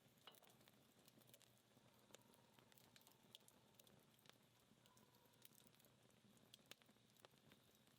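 Dying wood fire crackling faintly, with sparse, irregular small pops and ticks over a quiet hiss as the embers burn down.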